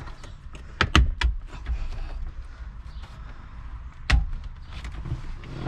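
Plastic dash trim panel of a Honda Element being handled and pried loose: a few sharp clicks and knocks about a second in and one more loud knock near four seconds, over quiet rubbing and handling noise.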